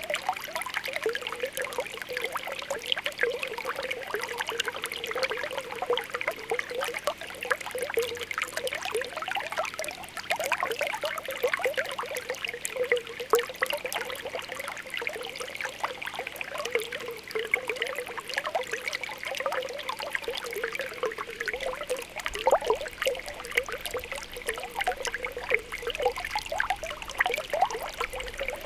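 Spring water welling up and bubbling, a steady stream of small pops and gurgles.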